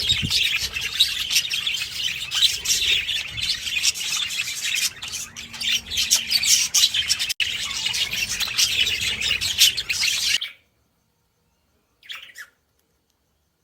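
A flock of budgerigars chattering loudly together in a dense, continuous warble of chirps. It cuts off suddenly about ten seconds in, with one short burst of chirps a moment later.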